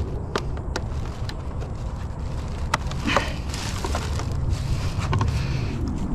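Scrap being worked by hand: a series of sharp clicks and knocks, with a scraping, rustling stretch around the middle, over a steady low rumble.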